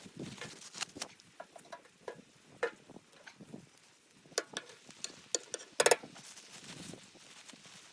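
Irregular small clicks and knocks of objects being handled, with a short, louder rattle about six seconds in.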